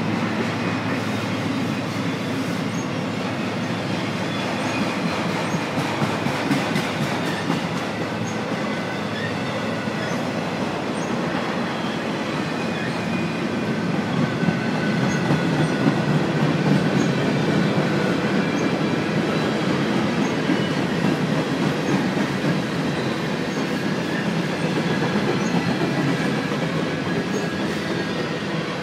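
A freight train of boxcars rolling past on the near track: steady rumble and rattle of steel wheels on rail, with faint high-pitched wheel squeals coming and going.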